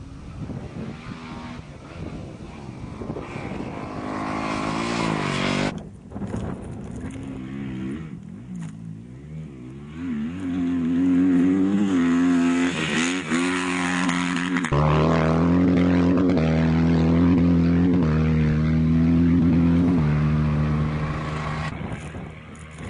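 Off-road rally motorcycle or quad engines racing on a special stage: one engine revs up through the gears, then after a sudden break about six seconds in another approaches, its pitch climbing and dropping with gear changes, runs loud and steady through the middle, and fades near the end.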